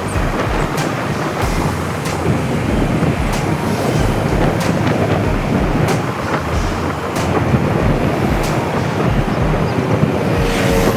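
Wind rushing over the microphone on a moving scooter, a loud, steady roar of air and road noise. Regular thumps with sharp clicks come about one and a half times a second throughout.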